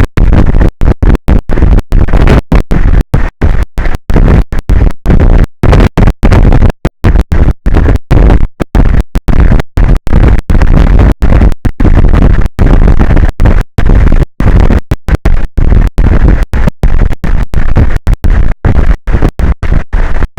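Loud, distorted noise from an overloaded microphone or audio feed, cut by many brief dropouts, a few every second, so it crackles and stutters.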